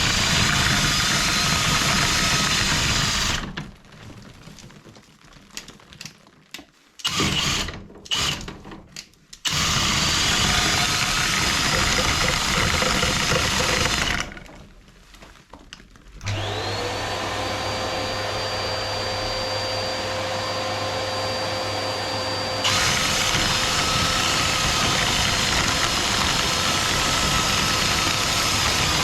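Electric motor of chimney-sweeping equipment running loud, switched off and back on several times, with a few short stop-start bursts. Later a different, slightly quieter motor sound spins up with a rising whine that settles into a steady tone, before the louder running resumes.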